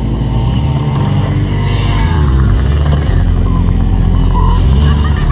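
Small dirt bike engine running, its pitch stepping up and down a few times as the throttle changes.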